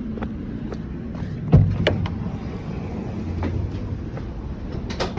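Steady low rumble of a vehicle running, with a couple of sharp knocks about one and a half seconds in.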